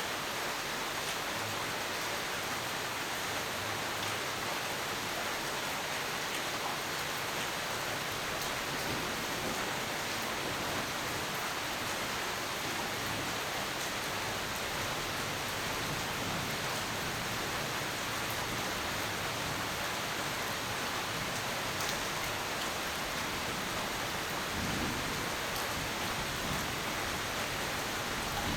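Steady rain falling, a constant hiss dotted with fine drop ticks.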